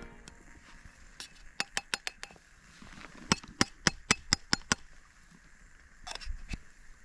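A run of light clinks and taps from camp cookware being handled: a handful in quick succession, then about seven more at roughly two a second.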